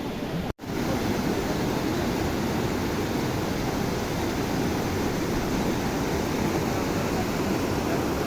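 Rushing floodwater: a steady, even rush of water noise. It drops out for an instant about half a second in, then carries on a little louder.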